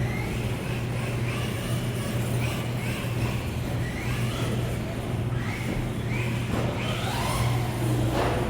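Electric RC cars' motors whining, the pitch rising again and again in short sweeps as they accelerate, over a steady low hum.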